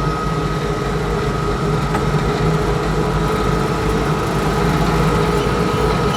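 International Harvester 1086's turbocharged six-cylinder diesel engine running steadily under way, with a constant thin whine over the engine drone, heard from inside the tractor cab. It grows slightly louder over the few seconds.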